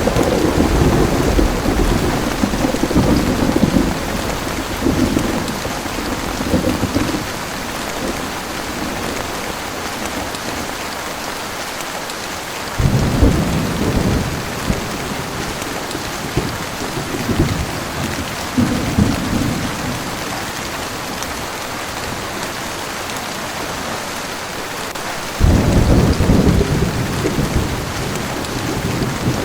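Heavy rain falling steadily, with thunder rumbling at the start, again from about thirteen seconds in, and once more near the end.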